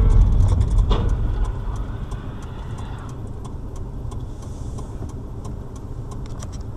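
A car driving, with engine and road noise heard from inside the cabin by a dash camera. A heavy low rumble at first settles after a second or two into a steadier, quieter hum, with scattered light clicks.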